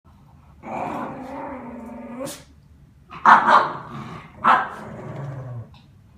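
A dog growling for about two seconds, then barking twice, then a short low growl near the end.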